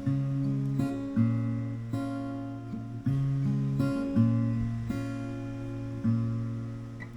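Background music on acoustic guitar: chords strummed and held, with a new chord struck about every second.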